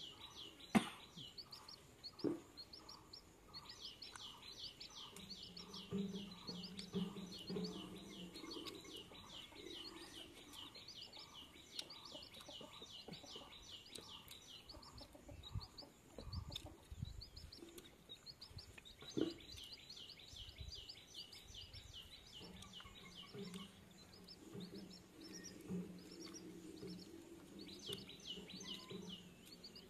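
A bird repeats a short high chirp about four or five times a second in long runs, stopping and starting several times. A low steady hum comes and goes in the background, and a few sharp clicks stand out, the loudest about a second in.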